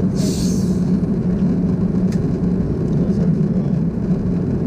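Steady low rumble of an Airbus A330-200 cabin in flight, engine and airflow noise heard from inside, with a brief hiss near the start.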